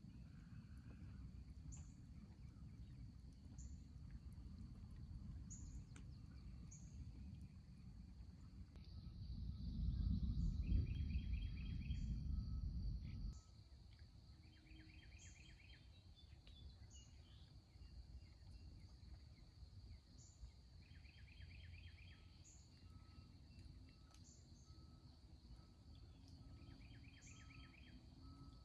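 Outdoor ambience: birds giving short high chirps every second or two and a repeated trilling call every few seconds, over a thin steady high tone. Underneath is a low rumble that swells about ten seconds in and drops away suddenly a few seconds later.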